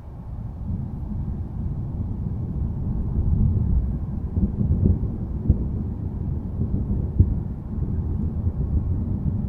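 Low rumble of distant thunder, a deep crackling roll that swells about a second in and peaks midway, with a couple of brief sharper cracks within the rumble.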